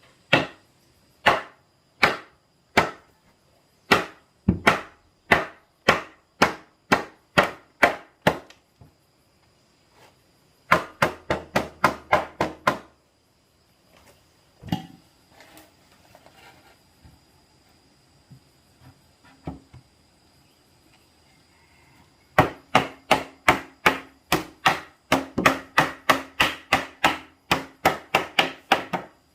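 Repeated blows of a hand tool on wood, about one and a half a second at first, then quicker runs, with a lull of scattered knocks in the middle.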